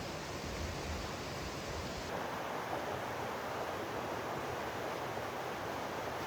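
Steady rushing hiss of river rapids. Wind rumbles on the microphone for the first two seconds, then stops.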